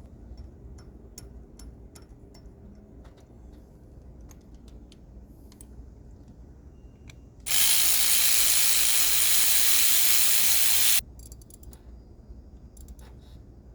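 Scattered metallic clicks and ticks of hand tools. About seven seconds in comes a loud, steady hiss that lasts about three and a half seconds and cuts off suddenly, then the clicking goes on.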